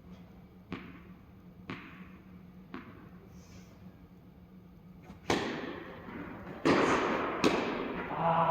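Tennis ball bounced on a hard court three times about a second apart before a serve. Then three loud racket strikes on the ball in a short rally, each echoing. A player's voice calls out near the end.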